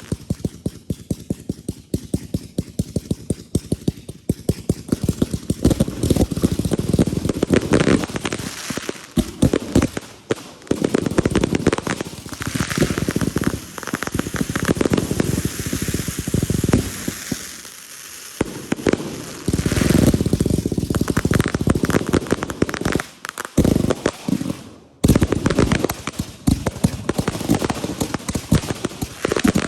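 Consumer fireworks going off in quick succession: dense volleys of sharp bangs and crackling, with a few brief lulls.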